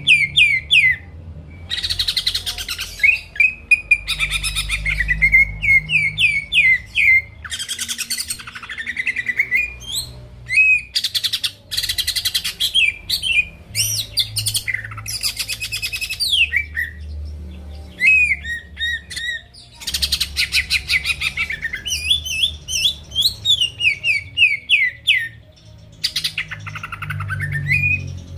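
A green leafbird (cucak ijo) singing in full, continuous song: quick slurred whistles alternating with dense, rapid rasping trills. This is a lure recording meant to provoke other birds into singing.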